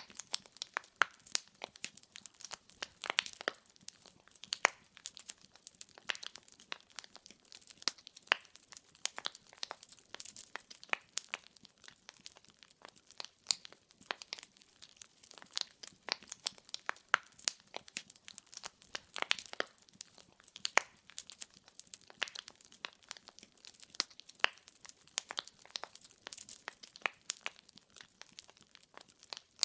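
Firewood logs burning in a fireplace, crackling and popping irregularly, many sharp snaps a second over a faint hiss.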